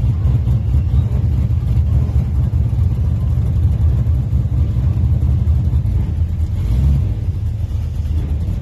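Holden Monaro's engine running at low revs, a deep steady rumble.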